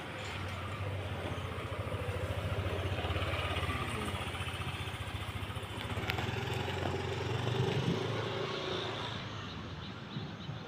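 Motor vehicle engines running nearby with a steady low hum, swelling twice and fading near the end.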